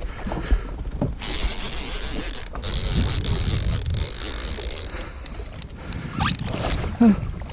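A fishing reel cranked steadily as a hooked fish is brought up, making a whirring hiss from about a second in until about five seconds in, over a low rumble.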